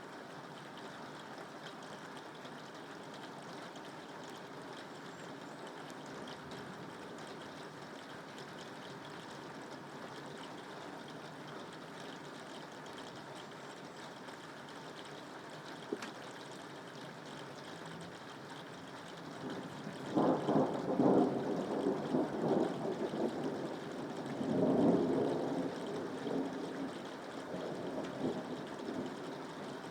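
Steady rain falling. About twenty seconds in, a louder rolling rumble of thunder comes in and swells twice before easing off.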